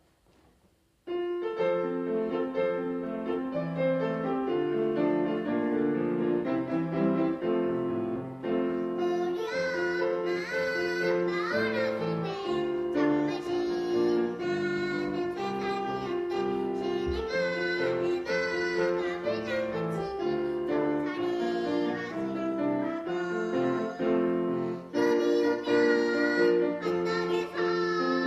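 A Korean children's song performed by a kindergarten-age child: piano-led accompaniment starts about a second in, and a young child's singing voice joins over it from about nine seconds in.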